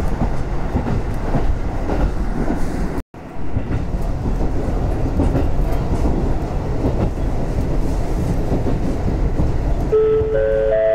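Train running noise heard from inside a railcar: a steady low rumble with wheel clatter on the rails. It cuts out for a moment about three seconds in, and near the end a rising three-note chime starts, the kind of chime that comes before an onboard announcement.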